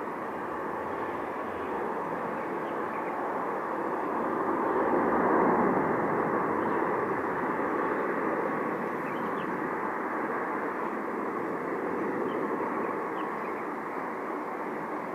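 Jet airliner's engines passing, a steady rushing roar that swells to its loudest about five seconds in and then holds, fading only slightly.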